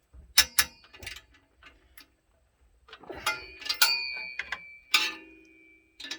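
Ratchet wrench clicking and metal tools clinking on the exhaust fasteners of a Chevy K5 Blazer as the bolts are tightened, with short squeaks from the hardware. A few separate clicks come first, then a busier run of clinks and squeaks in the second half.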